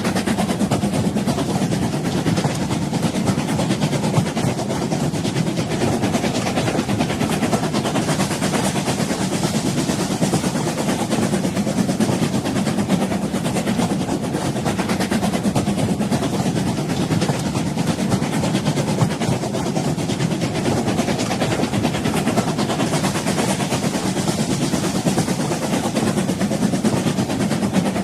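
A train running on rails with an even, low rumble and rattle that holds steady throughout.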